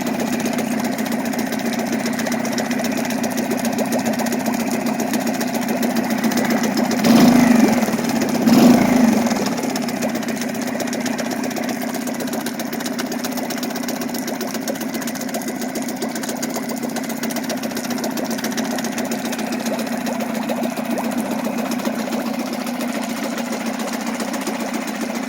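Suzuki DF2 2 hp four-stroke outboard motor running at a steady idle after servicing, briefly revved up twice about seven and eight and a half seconds in before settling back to idle.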